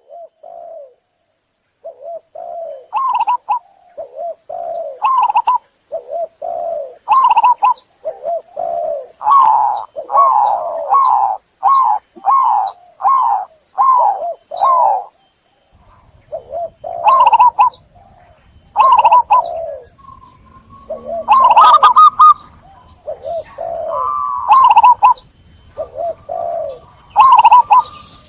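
Zebra dove (perkutut) cooing: a long series of short, rolling coo notes, spaced about a second apart at first and quickening to about two notes a second partway through.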